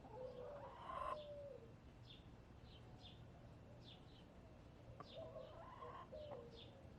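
Backyard hens making soft, low calls in short groups near the start and again about five seconds in, with wild songbirds chirping short high notes throughout.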